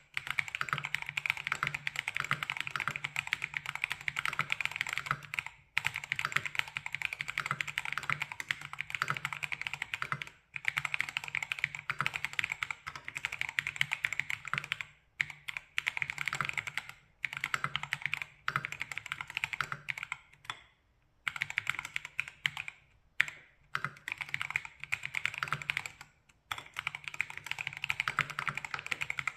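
Fast, continuous typing on a Monsgeek M5 mechanical keyboard: rapid key clacks in long runs broken by short pauses, with a faint low hum underneath.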